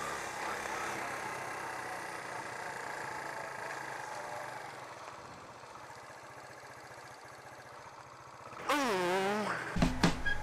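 Suzuki GZ125 motorcycle's single-cylinder engine running on the move, with wind and road noise, fading a few seconds in. Near the end a loud wavering tone of about a second, then music starts.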